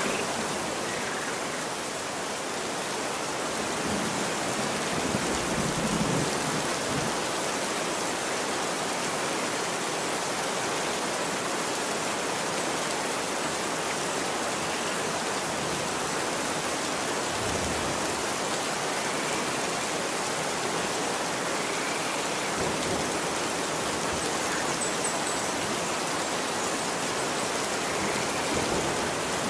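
Steady rain falling on a street, an even hiss of drops on the pavement, with a few brief low rumbles swelling and fading.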